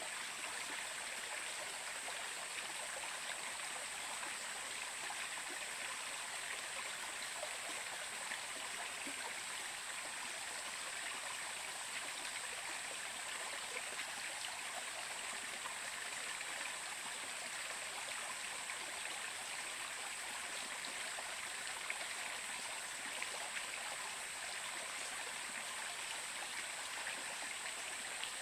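Stream water flowing steadily: an even, unbroken rushing with no change in level.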